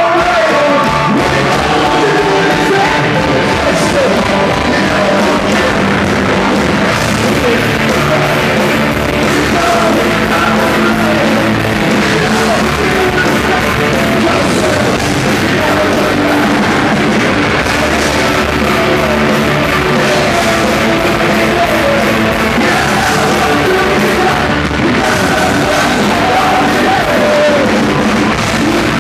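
Loud live hard rock band playing, with yelled singing over distorted guitars and drums.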